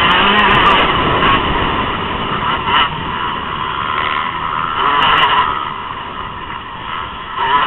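Motocross dirt bike engines revving hard with wavering pitch. They are loud at first, fade in the middle, and swell again near the end as bikes come back by.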